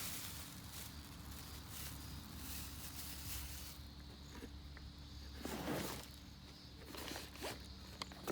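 Faint rustling and scraping, with a louder rustle about two thirds of the way through and a few short light clicks near the end.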